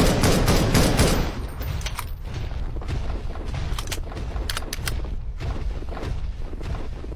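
A rapid string of sharp cracks like automatic gunfire that stops a little over a second in. After it comes a lower steady rumble with a few scattered sharp clicks.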